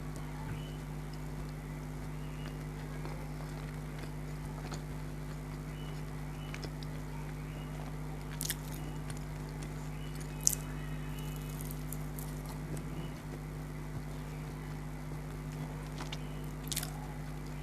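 A person eating chicken snacks: quiet chewing with a few sharp crisp bite or crunch clicks, the loudest about halfway through, over a steady low electrical hum.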